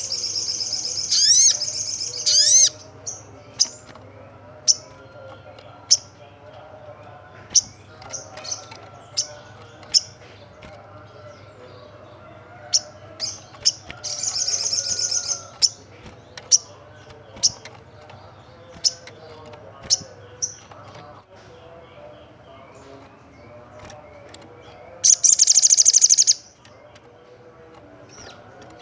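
Olive-backed sunbird song: sharp high chirps about once a second, with three loud rapid trills at the start, about halfway and near the end.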